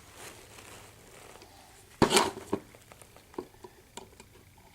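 Small objects being handled on a work surface: a sharp knock about two seconds in, then a few light clicks and taps.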